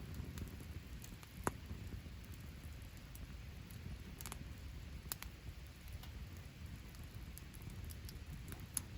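Wood fire crackling in a fire pit: scattered sharp pops, the loudest about one and a half seconds in, over a steady low rumble.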